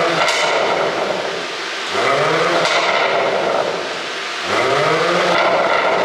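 Mercedes-AMG E53's turbocharged inline-six being revved in repeated blips, the pitch climbing for about a second and then falling back, about three times. As the revs drop, the exhaust pops and crackles from an ECU pop-and-crackle tune.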